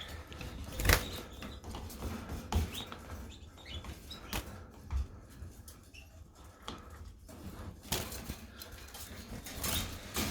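Canaries fluttering in their breeding cages, with a few faint chirps and several short knocks scattered through.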